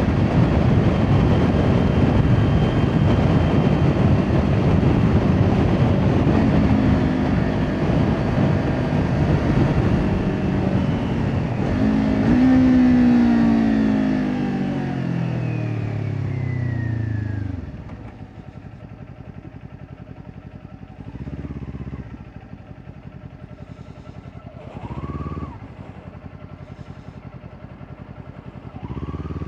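Kawasaki Ninja 400 parallel-twin with an Akrapovič exhaust, ridden at speed with wind rush over the microphone. A little before halfway the engine blips on a downshift, and its note falls away as the bike slows to an idle. It idles with two short throttle blips, then revs up again as it pulls away near the end.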